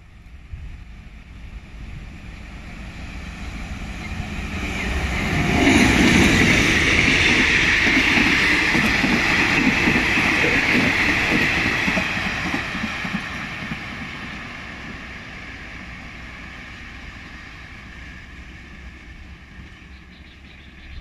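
Diesel-hauled passenger train approaching and running through the station. The sound builds steadily and the locomotive passes close about six seconds in. The coaches rumble by on the rails for several seconds, then the sound fades away.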